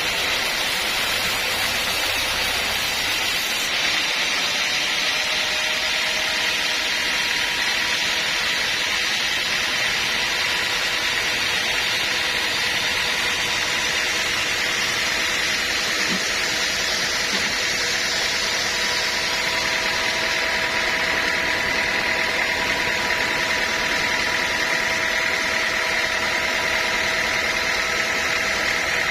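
Sawmill machinery running steadily, an engine-driven saw at work, with a constant high whine over its noise.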